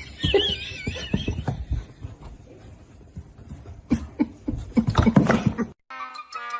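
A short, high, wavering animal call, followed by rustling and knocking. Music with a whistle-like melody cuts in abruptly near the end.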